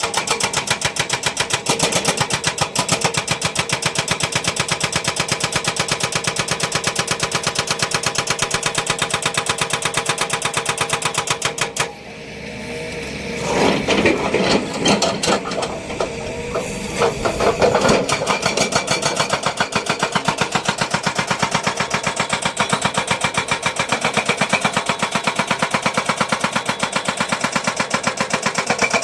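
Heavy construction machinery working with a rapid, even pounding rhythm, broken around the middle by several seconds of irregular, louder clattering before the steady pounding resumes.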